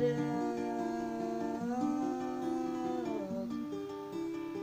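Plucked acoustic guitar accompanying a singer who holds one long note for about three seconds before it falls away; the guitar carries on alone near the end.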